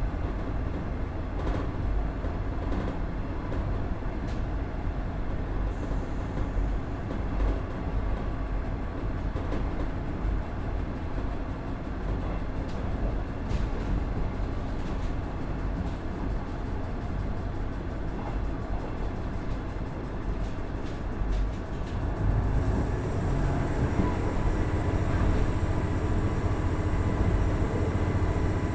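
Running sound inside a KiHa 110-200 diesel railcar: the Cummins DMF14HZA diesel engine and the wheels on the rails make a steady rumble, with irregular clicks over the track. About 22 seconds in the sound grows louder and a steady whine joins it.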